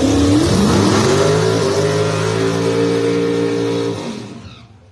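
Drag-racing Ford Mustangs at full throttle down the strip: engine pitch climbing, breaking at a gear change about half a second in and climbing again, then holding high before fading away quickly near the end.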